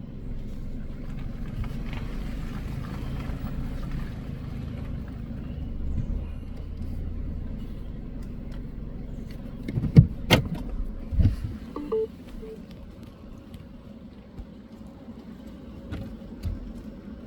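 Low, steady rumble of a car heard from inside the cabin, easing off about thirteen seconds in. A few sharp knocks about ten seconds in and two short beeps about two seconds later.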